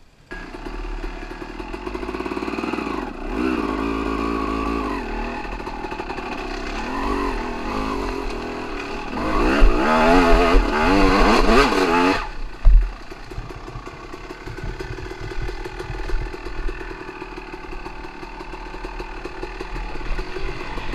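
Dirt bike engine running and revving, its pitch rising and falling as the throttle is worked, loudest for a few seconds past the middle. It then drops suddenly to a lower, steadier running sound, with a single knock just after the drop.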